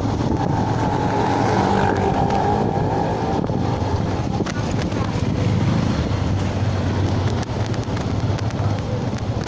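Yamaha FZS single-cylinder motorcycle riding at a steady speed, its engine droning under wind buffeting the microphone.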